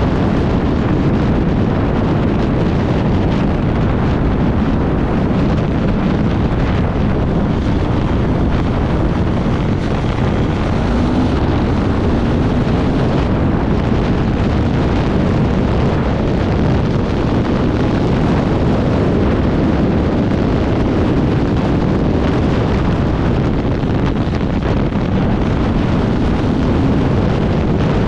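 Off-road motorcycle engine running at speed, its pitch rising and falling now and then, under heavy wind buffeting on the microphone.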